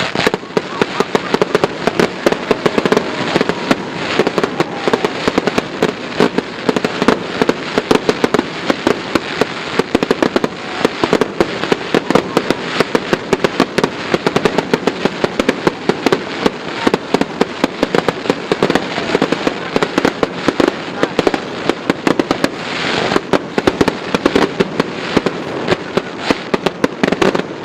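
Fireworks going off in a long, unbroken run of rapid sharp bangs and crackles, many each second.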